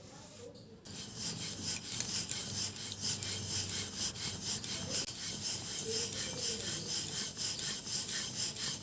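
Rolling pin rolled back and forth over dough on a rolling board in quick, even strokes, a dry rubbing noise. It starts about a second in. The dough is a stack of three oiled, flour-dusted rotis being rolled out large and thin.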